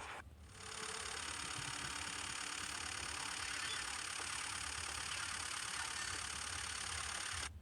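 Steady, even engine running noise that starts abruptly about half a second in and cuts off just as abruptly near the end.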